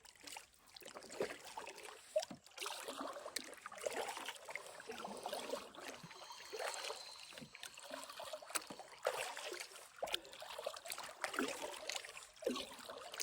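A double-bladed paddle dipping into lake water, with water trickling and dripping off the blades as a loaded solo canoe moves off, in small irregular splashes.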